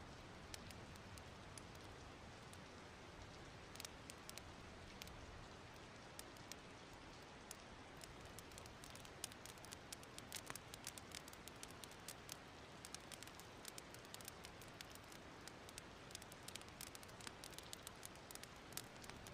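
Fireplace wood fire crackling softly: scattered small pops and snaps over a low, steady hiss.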